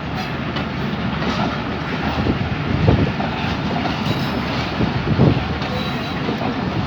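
Pakistan Railways' Awam Express passenger train rolling along the track as it departs, a steady low rumble of wheels on rail with a couple of heavier thumps.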